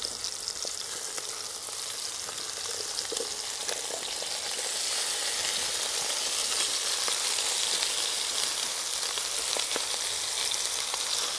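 Beef and fresh-cut vegetables sizzling in a hot cast-iron Dutch oven, the vegetables sweating in the fat left from searing the meat. It is a steady frying hiss that swells about four seconds in.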